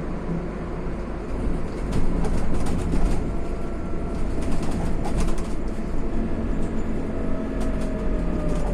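Inside a Scania CN280UB city bus on the move: steady engine and road rumble with frequent light rattles and knocks from the body and fittings, getting louder about two seconds in. A faint whine falls in pitch near the end.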